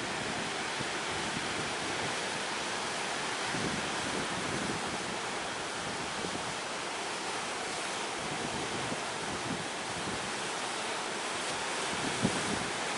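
Steady rush of sea surf with wind buffeting the microphone, and a brief thump near the end.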